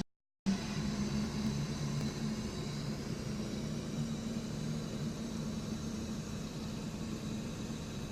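Car engine and road noise heard from inside the cabin while driving: a steady low hum with a faint high whine. The sound cuts out completely for about half a second at the start.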